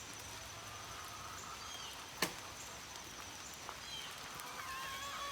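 Steady patter of light rain, with small birds chirping in short warbling phrases in the second half and a faint steady high-pitched whine throughout. A single sharp click about two seconds in.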